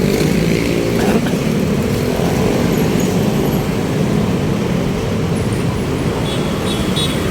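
Road traffic: motor vehicle engines running close by, a steady mix of engine and road noise.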